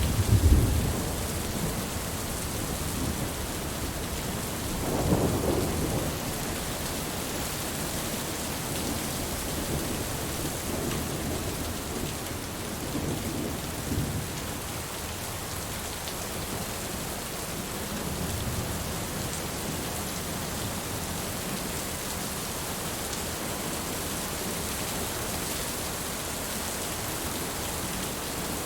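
Steady heavy rain with low rolls of thunder: a rumble fading out at the start, a stronger roll about five seconds in, and fainter rumbles later on.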